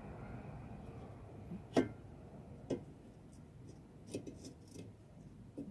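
A few separate light metal knocks and clicks from engine parts and tools being handled during engine assembly, the sharpest about two seconds in and a cluster of smaller clicks near the end.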